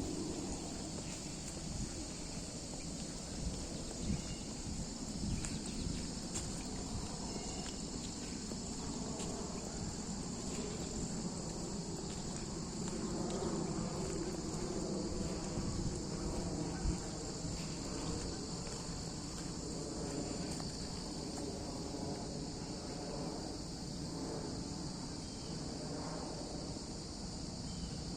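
Steady chorus of crickets: a continuous high, shrill trilling. Underneath it are soft, irregular low rustles and thuds, as from footsteps on the trail.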